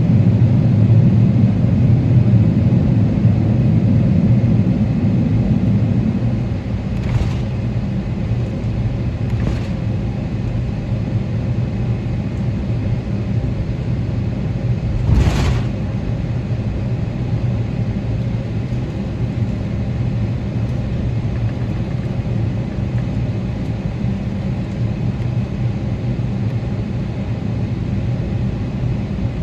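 Steady cabin rumble of a Boeing 777-300ER's GE90 engines and airframe, heard from inside the cabin. It is heavier for the first few seconds, then eases to a lower steady level. A few brief thumps come through, the sharpest about halfway.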